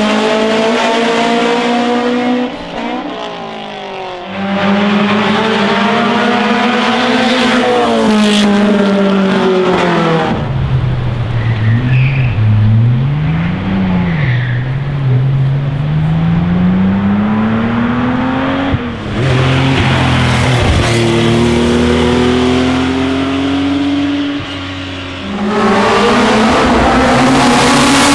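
Classic racing cars' engines revving hard up a hillclimb, their pitch climbing and dropping again and again through gear changes. Several different cars are heard in turn, with sudden changes from one to the next.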